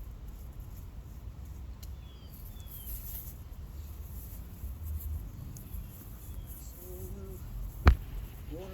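Outdoor background with a low rumble and a few faint bird chirps, broken by a single sharp knock near the end.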